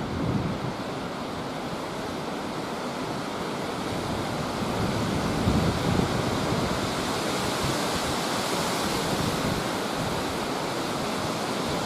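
Steady rushing noise of wind, with low gusts buffeting the microphone about half a second in and again around five seconds in.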